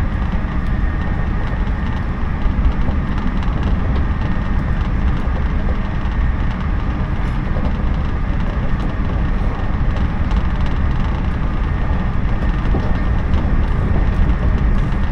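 JNR 113 series electric train running at speed, heard from inside the passenger car: a steady rumble of wheels on the rails and the car's running gear.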